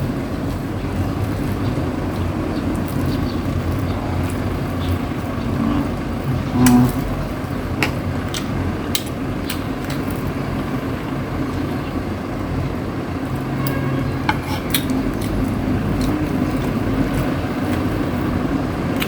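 Mukbang eating sounds: scattered sharp clicks of utensils and dishes while rotisserie chicken is eaten, over a steady low rumble of traffic.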